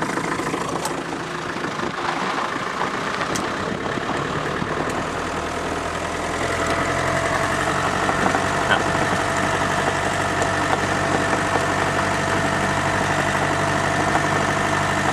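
Land Rover engine running as the vehicle drives along a dirt road, heard from on board. About six seconds in the engine note becomes steadier and a little louder.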